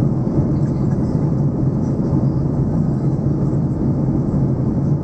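Steady cabin noise of an airliner in cruise flight: an even rumble of engines and airflow with a constant low hum.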